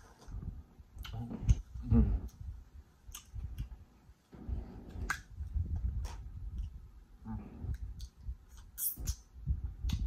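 Close-miked chewing and wet mouth sounds of someone eating boiled lobster meat, with many small clicks and snaps as the lobster shell pieces are handled.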